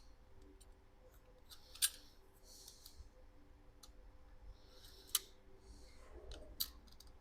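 A utility knife blade scraping old threadlocker out of metal threads: faint scratching strokes broken by a few sharp metallic clicks, the loudest about two seconds in and about five seconds in.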